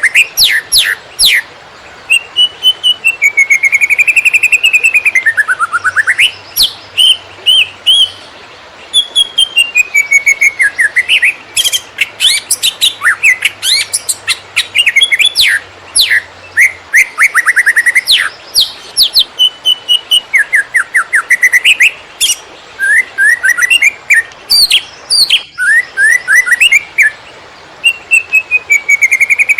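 Cucak ijo (leafbird) singing a loud, fast, varied song in the "konslet" style. Slurred whistles rise and fall, and rapid chirping trills come in quick phrases with only brief pauses between them.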